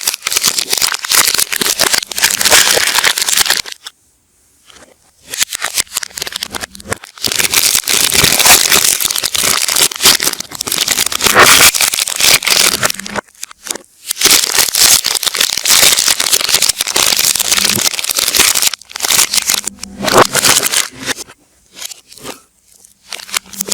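Soap wrappers being unwrapped and handled, crinkling, crackling and tearing in close-up, played backwards, with a few short pauses.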